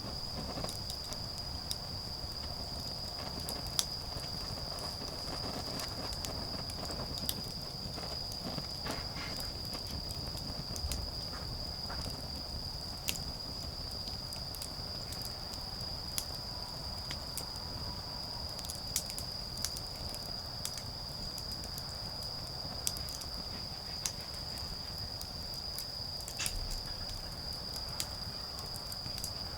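Autumn insects singing a continuous high-pitched trill, with irregular sharp pops and crackles from a burning wood fire.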